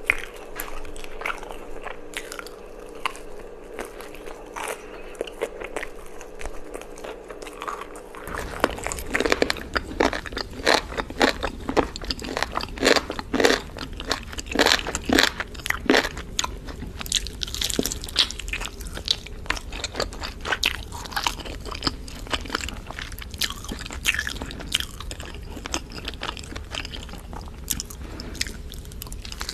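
Close-miked eating of chicken: crispy fried chicken being bitten and chewed with crunching over a faint steady hum. After a cut about eight seconds in, barbecued chicken is bitten and chewed, with dense, loud crunches for several seconds that thin out toward the end.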